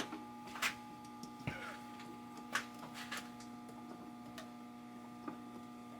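Steady electrical hum with a handful of light, scattered clicks and taps, about six over several seconds, as of small hardware being handled while an outlet is wired.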